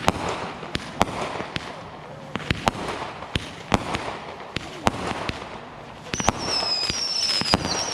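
Backyard consumer fireworks going off: a quick, irregular string of sharp bangs and pops. About six seconds in, several high-pitched whistles join, sliding slightly down in pitch.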